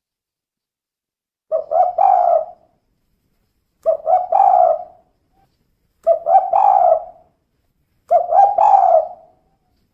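Female spotted dove (tekukur) cooing: four call phrases about two seconds apart, each a couple of short clipped notes running into a longer coo, in the 'kuk 2' pattern.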